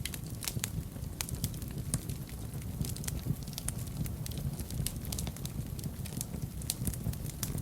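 Fire in a fireplace crackling, with frequent irregular sharp pops over a steady low rumble of the flames.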